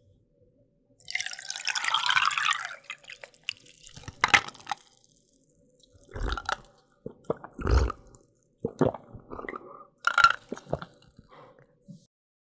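Close-miked eating of flaky pastry: a dense, crackly bite for about two seconds, then a run of separate chewing and wet mouth sounds with a few dull thuds.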